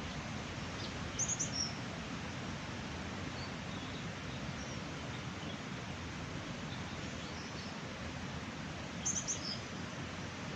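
Steady rush of flowing mountain-stream water, with a small bird giving two quick bursts of high chirps, about a second in and again near the end, and a few fainter calls between.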